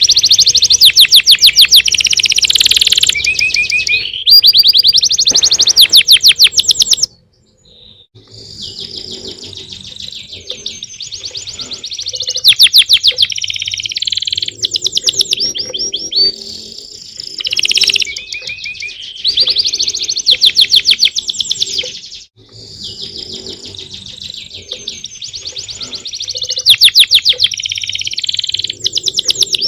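Small songbirds singing in long phrases of rapid trills and chirps, high-pitched and loud, with a brief pause about seven seconds in before the song resumes.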